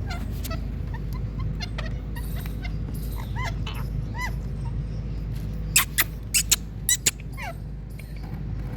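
Indian ringneck parakeets calling: short arched chirps, then a quick run of five or six loud, sharp calls past the middle, followed by falling chirps, over a steady low hum.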